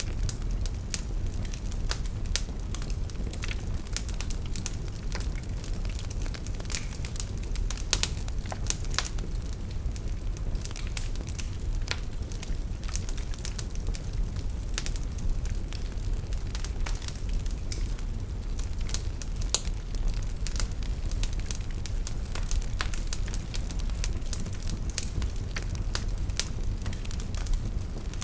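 Wood fire burning in a fireplace, with frequent irregular crackles and pops over a steady low rumble of flames.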